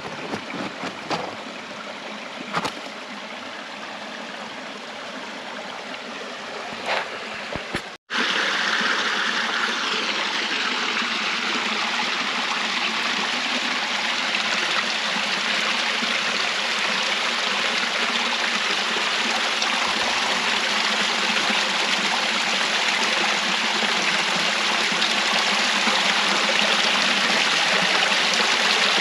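Rushing water of a stream or waterfall. A few small splashes sound in the first part. After a brief cut about eight seconds in, the water is louder and steady.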